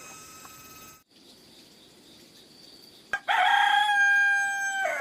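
Rooster crowing once, a single long held call starting about three seconds in. Before it, a steady high-pitched ringing tone stops abruptly about a second in.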